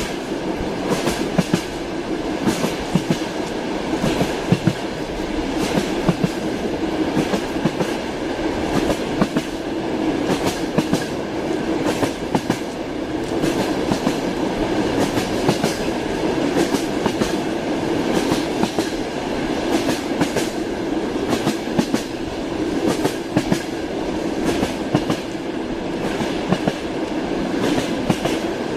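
Train wheels clattering over rail joints: a steady rumble of a moving train with a continuous run of sharp clicks.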